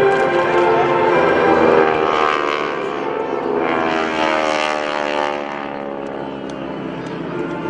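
North American SNJ-2 aircraft with 600-horsepower Pratt & Whitney radial engines flying past. Their engine and propeller drone falls in pitch as they go by, about two to five seconds in, then fades.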